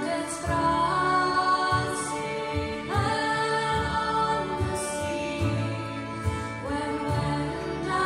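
Live Scottish folk song: a woman singing a melody over fiddles and a pulsing low bass accompaniment.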